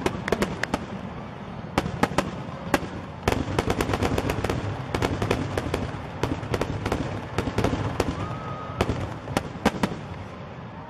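Aerial fireworks going off: a rapid series of sharp bangs and crackles that come in clusters a few seconds apart and thin out near the end.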